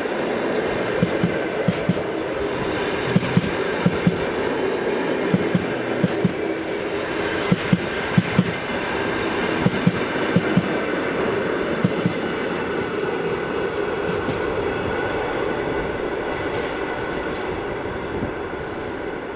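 Railway wagons rolling past, their wheels clacking over a rail joint in quick pairs and groups every second or two over a steady rolling rumble. The clacking stops about two-thirds of the way through and the rumble fades near the end.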